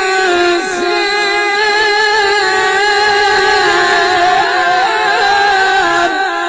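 Melodic Quran recitation: a single voice holds one long, ornamented note for about six seconds, wavering slightly in pitch, then tails off near the end.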